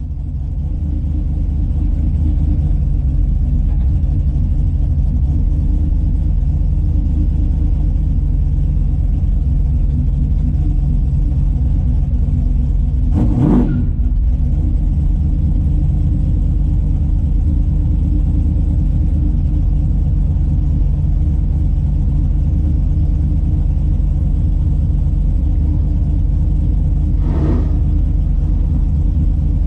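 Big-block V8 of a Plymouth Barracuda drag car running steadily, with a brief thump about halfway through.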